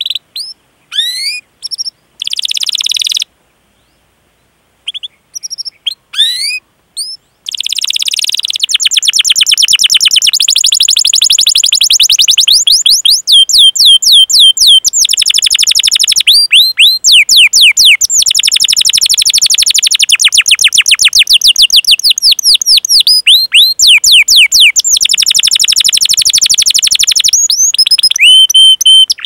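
Domestic canary singing. It starts with a few separate rising 'cuit' chirps and a short buzzy trill, then a pause of about a second and a half. From about seven seconds in comes a long rolling song: a rapid run of quick rising chirps, broken only by brief breaks.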